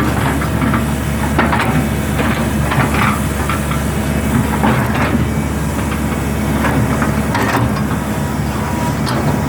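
Hitachi hydraulic excavator's diesel engine running steadily under work, with scattered short knocks and scrapes from the machine at work and a hiss.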